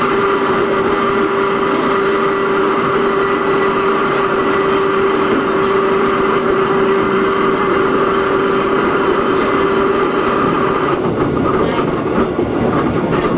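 Running sound inside a Hakone Tozan Railway Moha 1 electric car with nose-suspended drive: its SE121-A traction motors and gears whine at a steady pitch over wheel and rail noise. The whine fades out about 11 seconds in, leaving rougher, uneven running noise.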